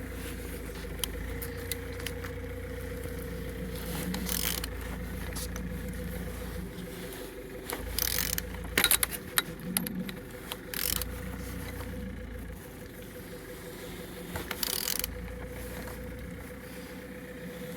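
Removed Opel A20DTH 2.0 diesel engine being turned over by hand with a tool, scattered metallic clicks and scrapes over a steady hum. The engine turns freely with compression on all cylinders.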